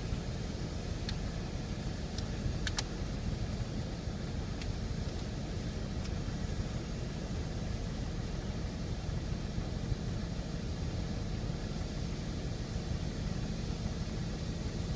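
Farm harvesting machine's engine running steadily with a low, even drone. A few faint sharp ticks come in the first five seconds.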